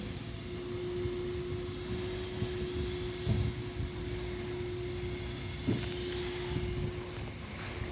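2004 Honda CBR600RR inline-four idling steadily through its stock exhaust, with a couple of short low thumps.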